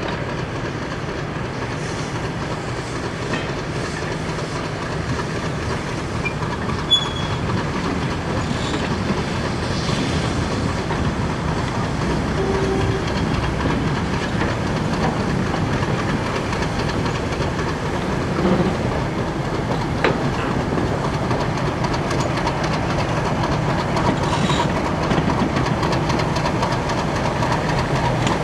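Goods wagons and a coach rolling slowly along the track, their wheels clattering over the rail joints. Underneath runs the steady rumble of a British Rail Class 50 diesel locomotive's English Electric V16 engine, which grows gradually louder as the locomotive draws near.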